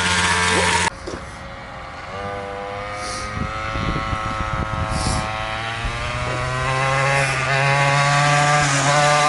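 A small 50cc mini moto engine running hard, cut off abruptly about a second in. The engine is then heard again, quieter, its pitch creeping up, and it grows louder from about seven seconds in as it is revved higher.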